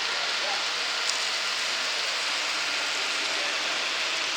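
Steady, even hiss of background noise, with faint distant voices.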